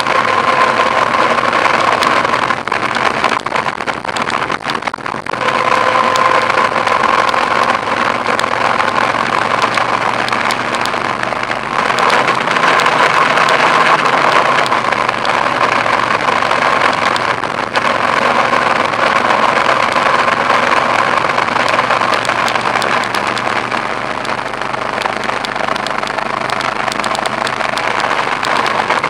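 Steady car engine and road noise from a moving car, with a brief drop in level a few seconds in.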